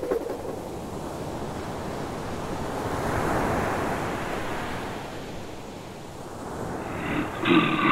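Ocean waves washing, swelling to a peak and easing off again. Near the end, a loud pitched animal roar breaks in.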